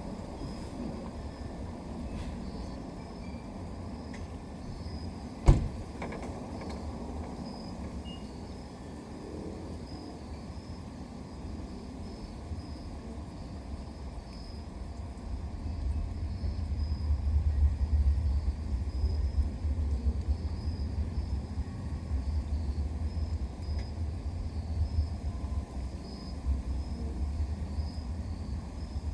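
A low rumble that swells and stays louder from a little past halfway, with one sharp click about five seconds in.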